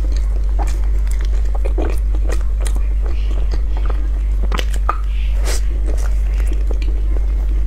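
Close-up eating: a person biting and chewing soft food, with many irregular small clicks and smacks of the mouth. A steady low electrical hum runs underneath.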